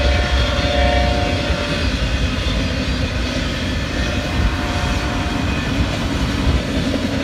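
Long freight train of autorack cars rolling past, a steady heavy rumble of wheels on rail. For the first couple of seconds a held tone rides over it and fades out.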